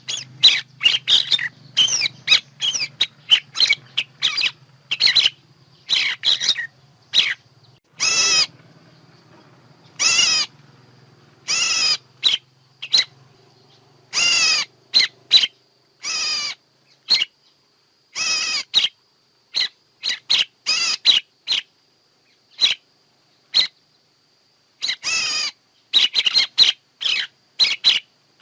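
Recorded songbird calls used as a bird-trapping lure: quick runs of short, sharp chirps with some longer ringing notes, broken by brief gaps of silence.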